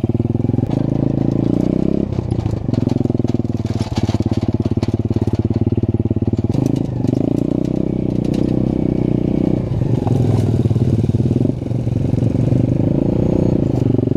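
Pit bike's small single-cylinder engine running loudly, its pitch rising and dropping several times as the throttle opens and closes.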